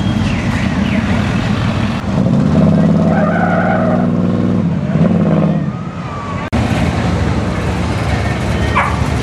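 Cars and trucks driving slowly past with their engines and exhausts running. One louder engine passes from about two and a half to five and a half seconds in, and the sound cuts abruptly twice, about two and six and a half seconds in.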